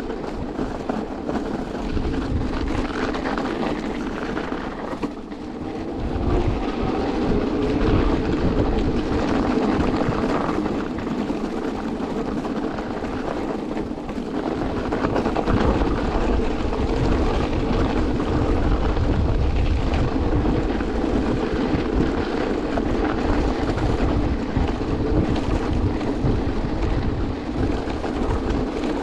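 Electric vehicle riding along a snowy road: a steady rumble of tyres and wind with a constant low hum.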